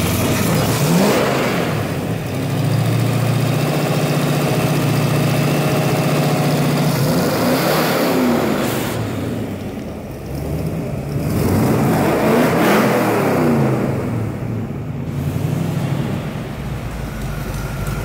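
Hot rod's V8 engine idling with a lope and blipped three times: about a second in, at about eight seconds and at about twelve and a half seconds. Each time the revs rise and fall back to idle.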